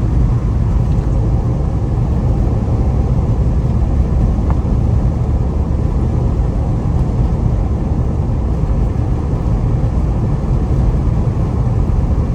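Steady low rumble of a Jeep driving, heard from inside the cabin: engine and road noise.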